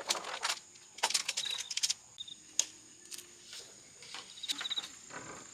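Tent poles and fittings clattering and rattling in several short bursts as a dome tent is put together, over a steady high drone of insects with a few short chirping trills.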